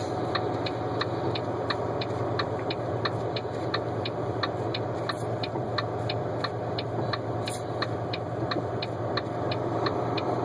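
Steady engine and road drone heard from inside a moving vehicle, with a light regular ticking about three times a second.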